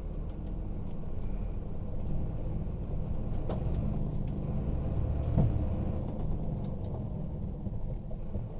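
A car driving, its engine and road noise making a steady low rumble, with a faint knock about five seconds in.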